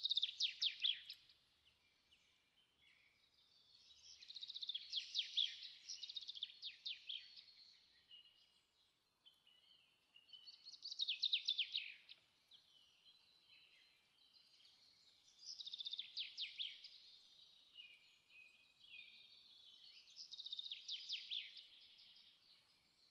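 A songbird singing: a rapid, trilling phrase repeated about every five seconds, five times in all, with fainter chirps between the phrases.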